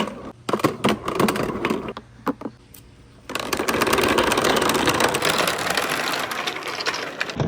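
Marbles clacking down a wooden marble run. Separate knocks come first, then a short lull, and from about three seconds in a dense, continuous rattle of many marbles rolling and knocking at once.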